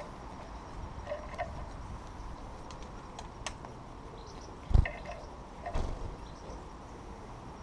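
Scattered light taps and clicks at a bird feeder, typical of small birds pecking and shifting on it, with a dull thump nearly five seconds in and a weaker one about a second later.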